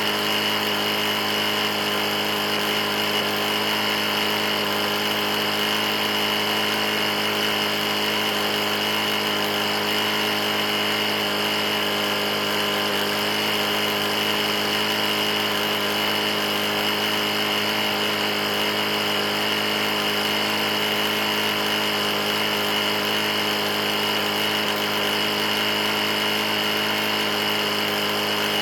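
Briggs & Stratton E450 lawn mower engine running steadily at one constant speed. The engine has a bad knock, a worn engine found almost out of oil, and is being run until it locks up.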